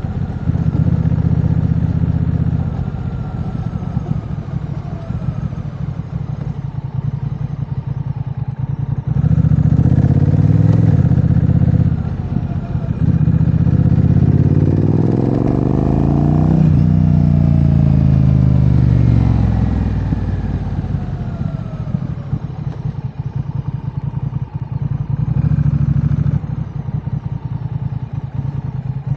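2022 Honda Rebel 1100's parallel-twin engine running through a Vance & Hines aftermarket exhaust. It holds a low steady pace, with the revs rising about nine seconds in, rising and falling again from about fourteen to twenty seconds, and a short rise near the end.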